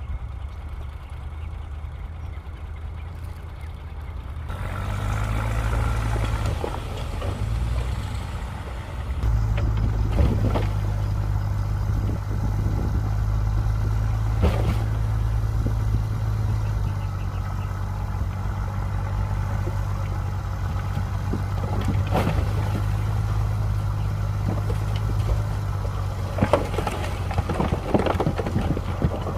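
Bulldozer's diesel engine running under load. It picks up about four seconds in and again about nine seconds in, with occasional sharp clanks over the steady engine hum.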